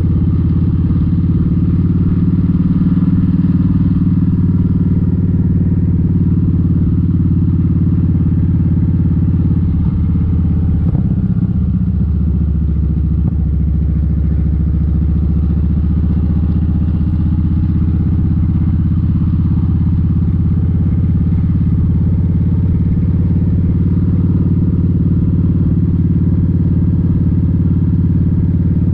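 Kawasaki Vulcan 1700 Vaquero's V-twin engine running steadily under way, with a brief dip in the engine note about eleven seconds in.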